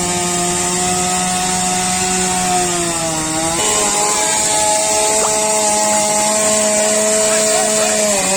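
Chainsaw running at full throttle, cutting up a storm-felled tree. Its pitch dips briefly about three seconds in, then steadies a little higher.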